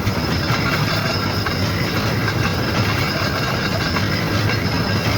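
Steady, continuous machinery noise with a dense low rattle that does not change.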